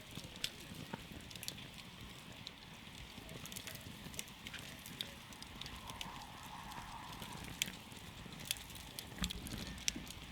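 Campfire burning, with irregular sharp crackles and pops over a low, steady rumble of the flames.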